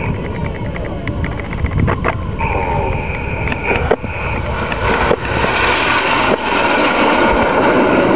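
Jet noise from the Red Arrows' BAE Hawk aircraft passing overhead in display flight: a steady rushing noise that grows louder over the last few seconds.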